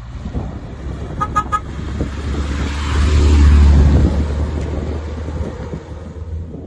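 A passing vehicle: a low rumble that swells to its loudest about three to four seconds in and then fades away. About a second in there are three quick, high beeps.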